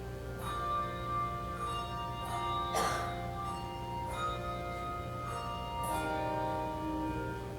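Handbell choir playing a slow piece: bells struck about once a second, each note ringing on and overlapping the next, over a steady low hum.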